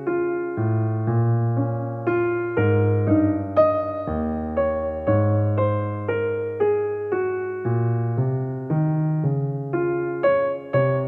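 Soft background music on piano or electric piano: slow struck notes and chords, each fading after it is played.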